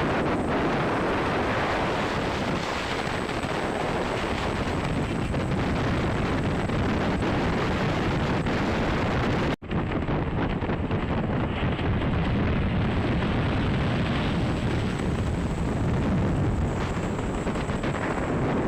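Steady road and engine noise of moving traffic under heavy wind on the microphone. The sound cuts out for an instant about halfway through.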